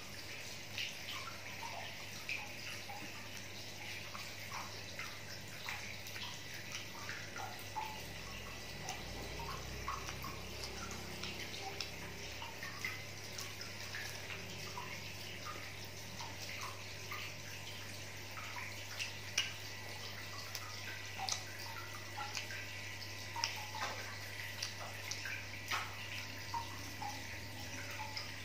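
A person chewing and eating fried banana topped with chocolate sauce and grated cheese, with many small, irregular mouth clicks. Underneath runs a steady rushing hiss with a low hum.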